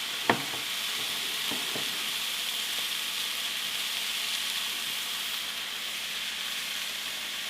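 Chicken and vegetables frying in oil in a pan, with a steady sizzle throughout. There is a sharp knock about a third of a second in, and two fainter knocks a little over a second later.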